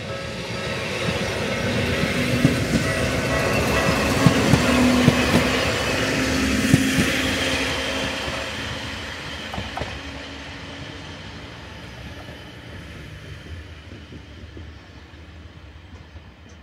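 Sangi Railway electric train passing, its wheels clicking over the rail joints; the sound builds to its loudest about five seconds in, then fades away.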